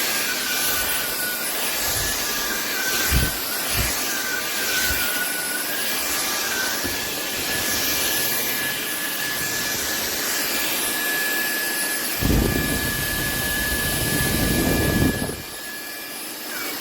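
SMOTURE 550 W cordless stick vacuum running with a steady whine and rush of air, with a couple of knocks a few seconds in and a louder rough stretch of about three seconds late on. Near the end it quietens and the motor starts to wind down.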